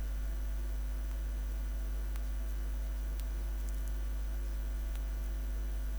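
Steady low electrical mains hum with a row of faint higher overtones, unchanging throughout.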